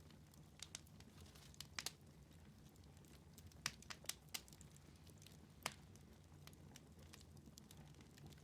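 Wood fire in a fireplace crackling quietly, with scattered sharp pops and snaps, several close together around the middle, over a faint low steady hum.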